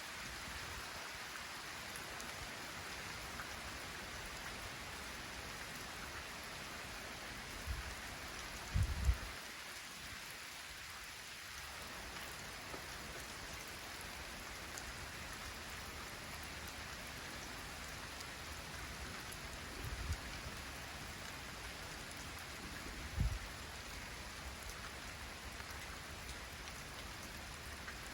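Light rain falling steadily, an even hiss of raindrops. A few brief low thumps break through, the strongest about nine seconds in.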